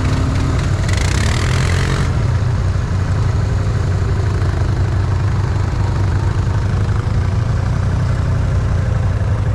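ATV engine running steadily at an even, low speed, with a brief hiss about a second in.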